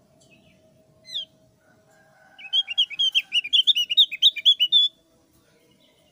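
Javan grey-throated white-eye (opior Jawa, thick-browed form) singing: one sharp falling note about a second in, then a fast twittering run of chirps lasting about two and a half seconds that ends on a short held note.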